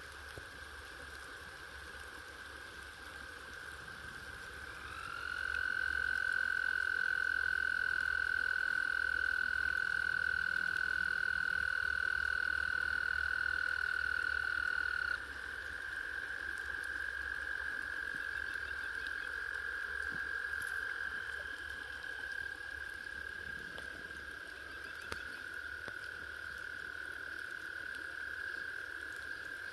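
Frogs calling with long, steady, high trills. A closer, louder caller starts about five seconds in and stops abruptly about ten seconds later, while fainter trills carry on.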